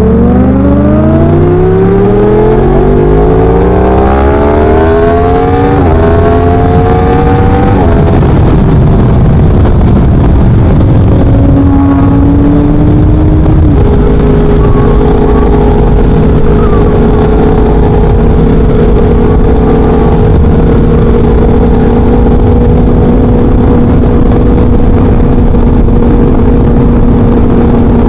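Yamaha R1's crossplane inline-four through a Leo Vince 3/4 exhaust, accelerating hard with the engine note climbing through two gears. It then eases off and settles into a steady cruise at constant engine speed for the second half.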